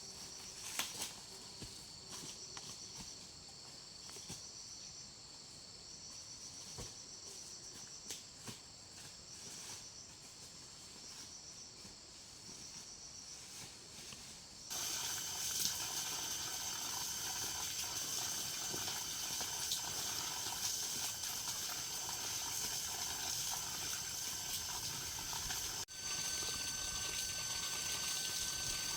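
Insects calling: a steady high buzz with a pulsing trill that repeats every second or two. About halfway through there is a sudden jump to a louder, denser insect chorus.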